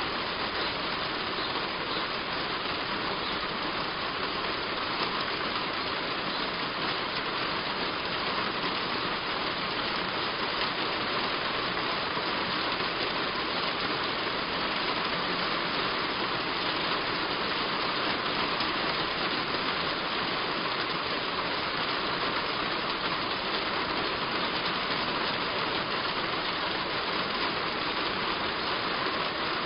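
Heavy rain falling steadily on a roof, an even hiss with no let-up.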